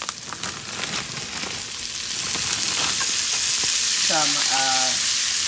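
Garlic and onion sizzling in butter in a frying pan, with a few clicks of a utensil stirring in the first second or so. The sizzle grows louder about two seconds in.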